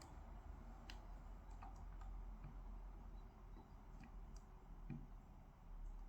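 Faint, irregular clicks and taps of someone working at a desk, about ten spread over the few seconds, over a steady low hum.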